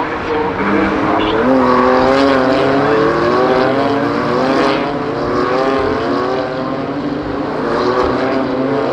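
BMW M2 CS Racing cars' twin-turbo straight-six engines running hard on track, several engine notes overlapping and rising and falling in pitch with throttle and gear changes.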